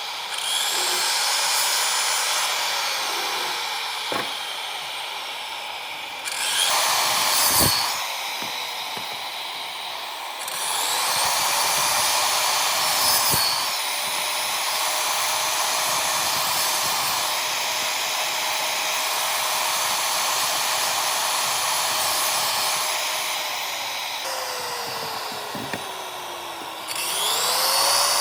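Handheld electric power tool cutting or shaping wood: a loud motor whine that sags in pitch as it bites into the wood and rises back between passes, with a few sharp knocks along the way.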